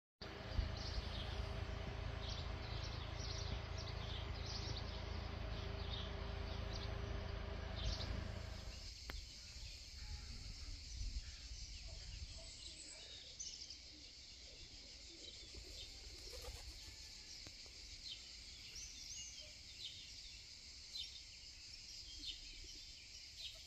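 Birds chirping in outdoor background noise. A steady low hum runs under the first nine seconds and stops abruptly, leaving the chirps over a quieter background.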